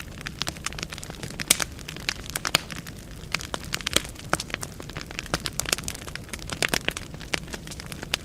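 Wood fire burning in a fireplace: irregular sharp crackles and pops of the burning logs over a soft steady rumble of the flames.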